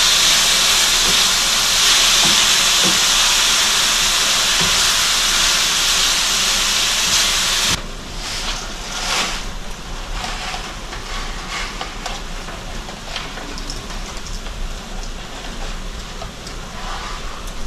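Chicken breast pieces frying in olive oil in a skillet: a loud, steady sizzle. About eight seconds in it drops suddenly to a fainter sizzle with scattered light clicks.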